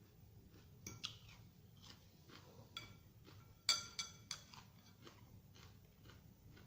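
Close-up crunchy chewing of fresh vegetable salad in a series of short crisp crunches. Cutlery clinks on the dish twice, the loudest about three and a half seconds in, ringing briefly.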